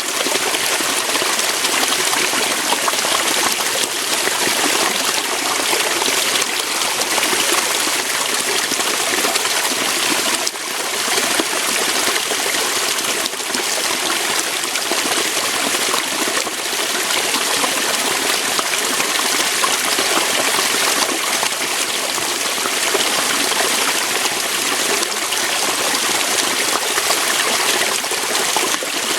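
Small waterfall: water pouring and splashing over rocks in a steady rush with no pauses.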